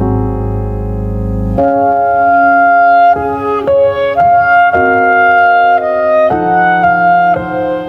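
Keyboard music, organ-like: a low held chord that stops about a second and a half in, then a run of sustained chords changing every half second or so.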